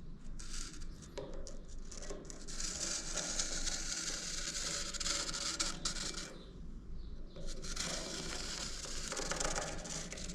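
A pen scratching along a steel plate as a cut line is traced on it, in two long strokes with a short break a little after halfway.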